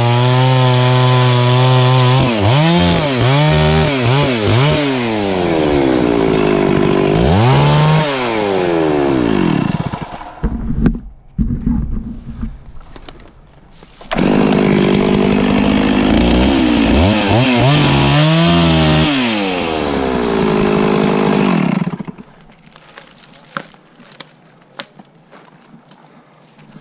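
Two-stroke chainsaw running at full throttle and cutting wood, its engine pitch rising and falling as it works through the cut. About ten seconds in it drops away for a few seconds with scattered knocks, comes back at full throttle for another cut, then cuts off near the end, leaving small clicks and knocks.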